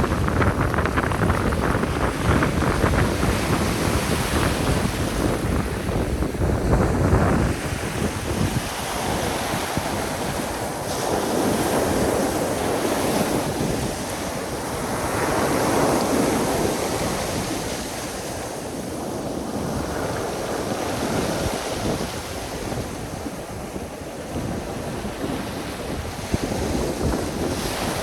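Sea waves breaking and washing on the shore, the surf swelling and easing every few seconds. Wind buffets the microphone, most heavily in the first seven seconds or so.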